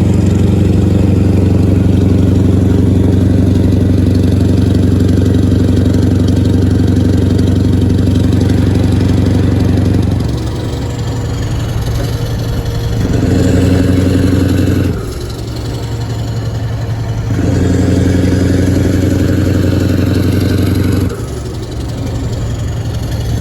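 Scania V8 truck engine with an open, straight-piped exhaust, held at a steady raised speed for about ten seconds and then dropping back. It is then run up twice more and held for a few seconds each time, falling back suddenly after each.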